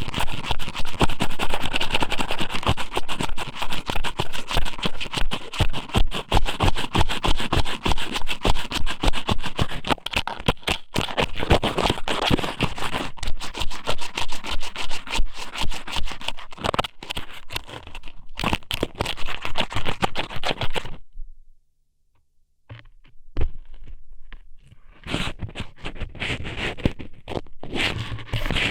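Strips of squid sōmen rubbed and pushed into a binaural microphone's ear, a dense, rapid, close-up wet crackling scrape. It cuts off suddenly about 21 seconds in, then after a second of silence comes back as sparser crackles.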